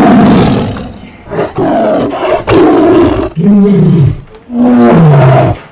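Tiger roaring: several loud roars in quick succession, the last two falling in pitch.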